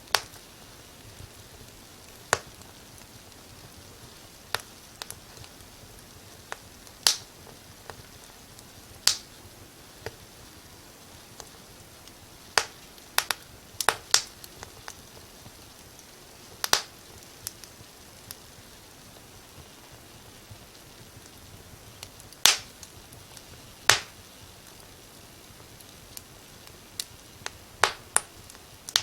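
Wood fire crackling in a fireplace: irregular sharp pops and snaps, some single and some in quick pairs, over a steady soft hiss.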